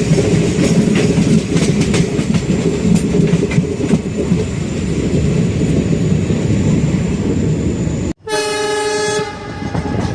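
Passenger train running on the rails, heard from on board: a steady rumble with clickety-clack. About eight seconds in the sound cuts off abruptly, and a train horn then sounds for about a second before trailing off.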